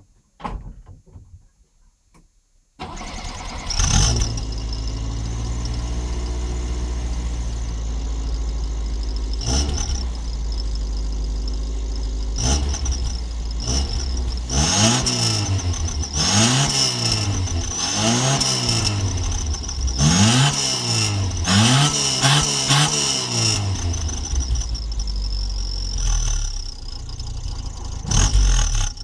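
Turbocharged Yugo's four-cylinder engine starting about three seconds in and idling, then revved about five times in quick succession. A high turbo whistle rises and falls with each rev.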